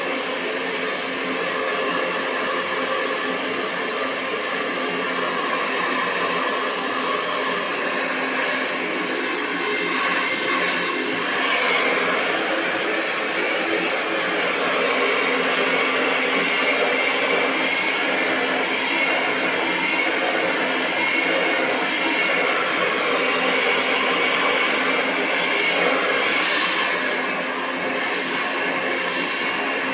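Hair dryer running steadily: a continuous rush of blown air with a faint motor whine.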